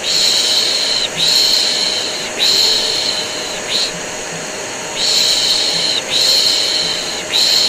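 Shushing 'shhh' sounds for soothing a colicky baby, in long strokes of about a second each: three long ones and a short one, a pause, then again. Under them runs the steady hum of a vacuum cleaner, mixed in as white noise.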